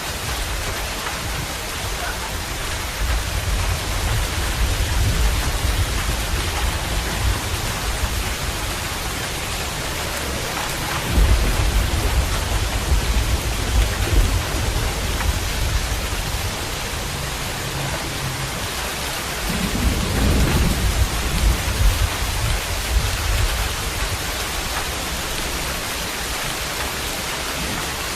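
Steady rain pouring down, with low rolling rumbles of thunder in three spells: one building about two seconds in, a sharper one starting about eleven seconds in, and another around twenty seconds in.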